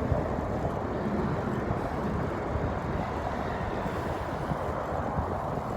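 Wind rushing over the microphone of a moving bicycle rider: a steady, even rumbling noise.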